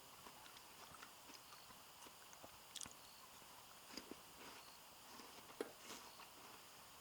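Near silence with a few faint, brief clicks and taps, the clearest near the middle and one a little after five seconds.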